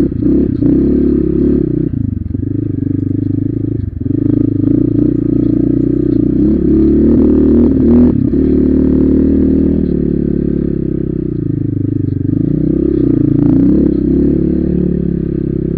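Motorcycle engine running under way, its revs rising and falling, with occasional knocks and rattles from riding over a rough track.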